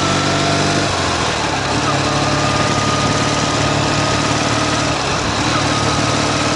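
Ural sidecar motorcycle's air-cooled boxer-twin engine running under load on the road, with a knock from the left cylinder that comes only under load; typical, in the rider's view, of a worn piston pin or connecting-rod big end. The engine note dips briefly about a second in, then picks up again.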